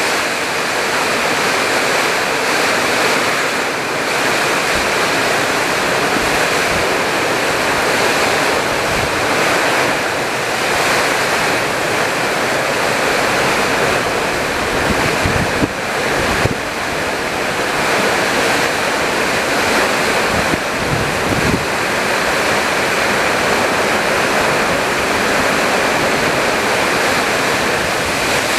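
Summer storm: a steady rush of heavy rain and strong wind, with gusts buffeting the microphone in a few brief low bumps around the middle.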